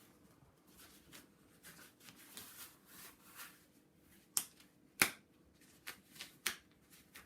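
Rubber household gloves being pulled onto the hands: soft rustling of the rubber, then several sharp snaps, the loudest about five seconds in.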